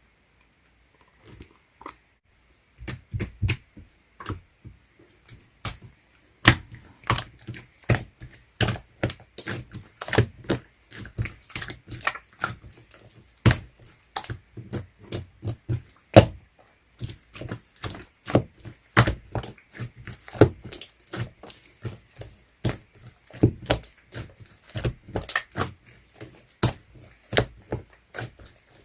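Slime being squished and pressed by hand, making irregular sharp clicking and popping sounds, several a second, which start about a second and a half in.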